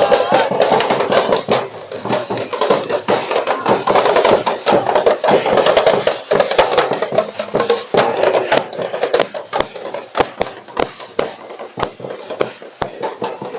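Street-dance drums and percussion beating, over a dense hubbub of crowd voices; the strikes grow sparser and more evenly spaced in the second half.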